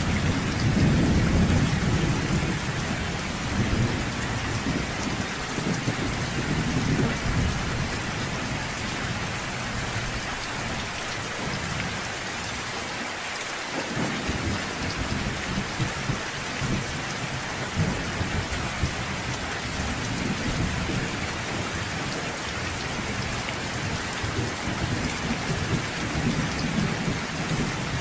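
Steady rain falling in a thunderstorm, with low rolling thunder that is loudest in the first few seconds and rumbles again more softly later on.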